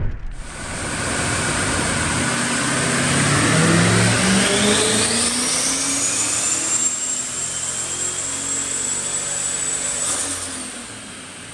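Turbocharged Toyota Tundra 5.7L V8 accelerating hard on a chassis dyno, its single turbo's whistle rising steadily in pitch and then holding high while the engine note climbs in steps. The run lets off about ten seconds in.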